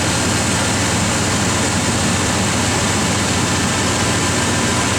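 Old Chevrolet pickup's engine idling steadily and smoothly, running again after about eight years sitting unstarted.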